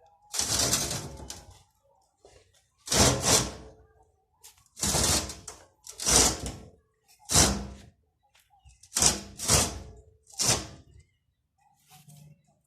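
A series of about eight short knocks and scrapes at irregular intervals, the first lasting about a second, from parts of a pump motor being handled and worked on during a repair.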